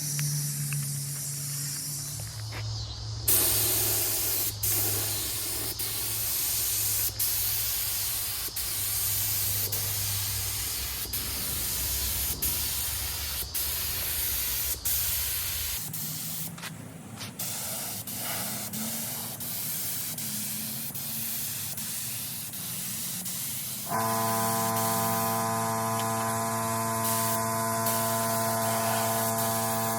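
Steady spraying hiss with scattered short clicks over a low hum; about three-quarters of the way through, a set of steady held tones joins it.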